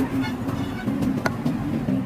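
Machine-shop machinery running with a steady low hum and a single sharp click just past the middle.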